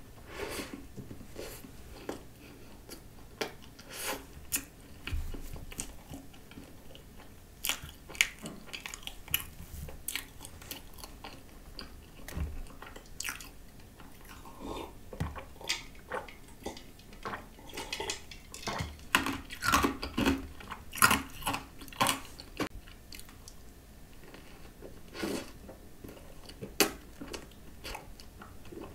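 Close-up eating sounds: a person biting and chewing a croissant topped with whipped cream and coconut spread, as many short, irregular clicks, busiest and loudest around two thirds of the way through.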